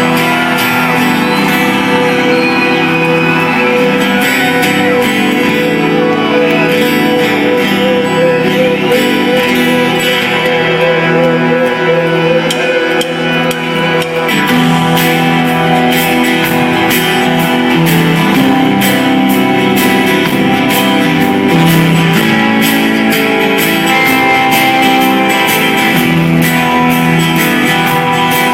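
Rock band music led by guitars, with little or no lead vocal. Cymbal hits become more prominent about halfway through.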